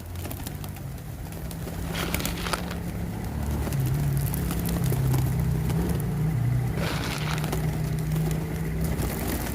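A motor running with a steady low hum that steps slightly up and down in pitch, with short rushes of noise about two seconds in and again around seven seconds.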